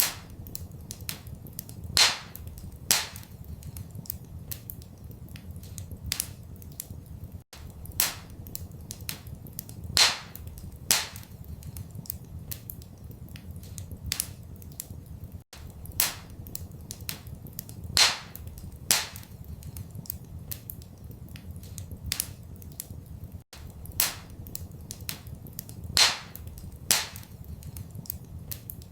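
Wood fire crackling in a fireplace: frequent sharp pops and snaps, a few much louder, over a steady low rumble. The same pattern repeats about every eight seconds, with a brief gap at each repeat, as a looped recording.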